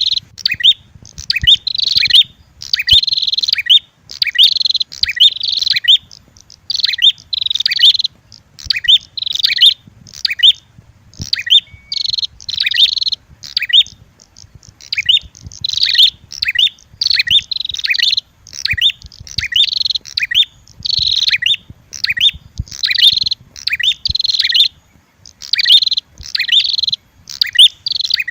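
Prenjak (prinia) calls played as a bird-lure recording: the red-headed prenjak mixed with a female prenjak's agitated fighting calls. Fast series of sharp, high chirps come in bursts about once a second, with a short pause about halfway through.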